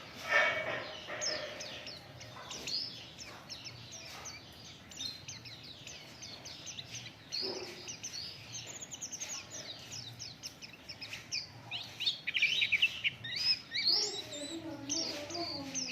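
White-eye (pleci) singing: a fast run of high, thin chirps and twittering trills that grows busier and louder near the end.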